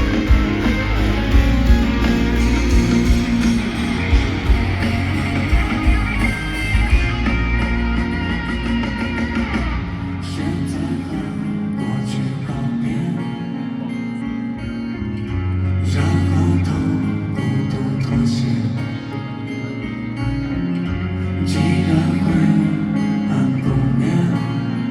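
Live band playing an instrumental passage with no lead vocal: guitar over heavy bass and drums for the first several seconds, then a lighter, guitar-led part with less low end.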